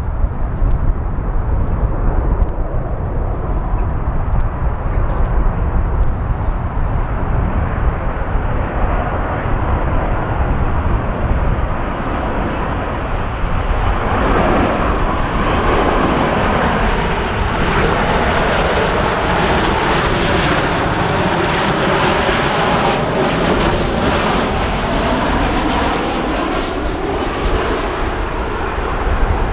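Ryanair Boeing 737 jet coming in to land, its engine noise swelling from about halfway through and staying loud, with sweeping shifts in pitch as it passes. Under it, a steady rumble of wind on the microphone.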